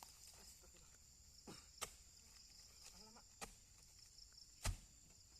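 Quiet outdoor background with a faint steady high tone, broken by a handful of short, sharp knocks or thuds; the loudest comes near the end.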